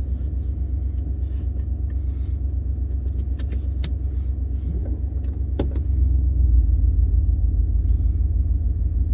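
Ford F-150's 5.0-litre V8 engine running, heard from inside the cab as a steady low rumble. A few sharp clicks come in the middle. About six seconds in, the rumble grows louder.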